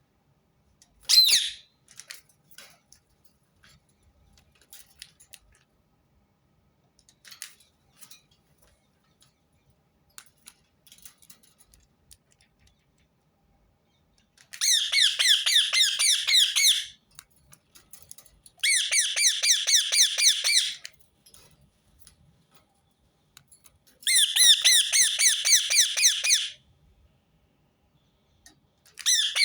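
Rose-ringed parakeet calling: one short, loud squawk about a second in, then after a lull of faint clicks, runs of rapid, high-pitched repeated screeches, each about two seconds long: three in the second half, with a fourth starting at the very end.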